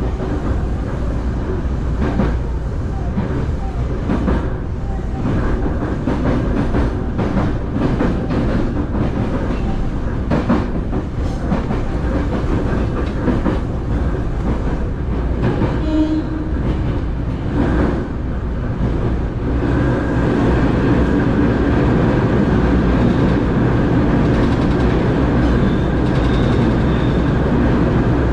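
Electric multiple-unit train running, heard from inside the front car behind the cab: wheels clatter over rail joints and points with a continuous rumble, and about two-thirds of the way in the noise turns to a steadier, more enclosed rumble as the train runs under the station roof.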